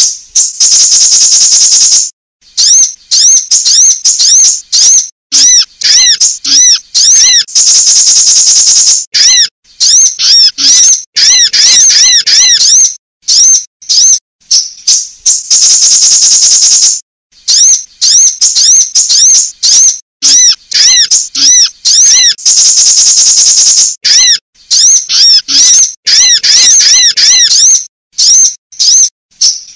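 Sunbird calls, loud and high-pitched: quick rising-and-falling chirps and twitters repeated rapidly. Every six or seven seconds a steady buzzing trill is held for about a second and a half, four times in all.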